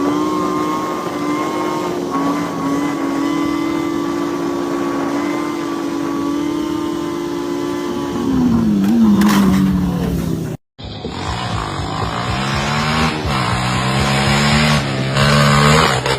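Motorcycle engine held at steady high revs, then dropping and wavering about eight seconds in; after an abrupt cut, another engine revs up and down.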